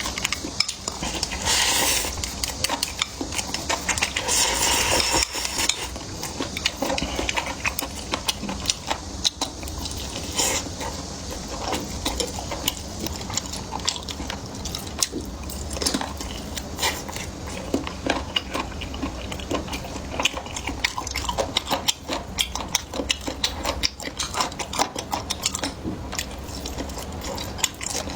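Close-up eating sounds: utensils clicking and scraping against a bowl and plate over and over, with chewing. Louder noisy stretches come about two and five seconds in.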